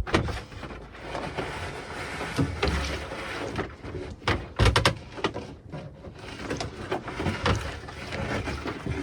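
Boat wiring harness being dragged out by hand: steady rustling and scraping, with several sharp knocks and clunks, the loudest a quick cluster about halfway through.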